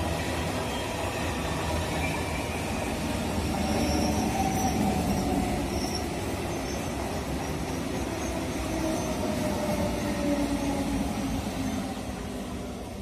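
Eastern Railway EMU local train's coaches rolling past along the track in a steady rumble of wheels on rail, with faint wheel squeal. The sound fades near the end as the last coach goes by.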